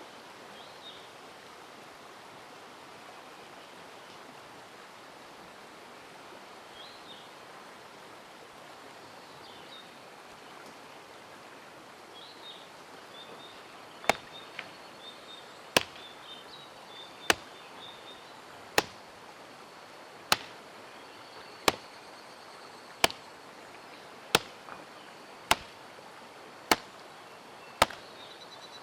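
Steady rush of a mountain stream with a few high bird chirps. About halfway in, a hand axe starts chopping wood: a sharp strike about every one and a half seconds, eleven or so in all.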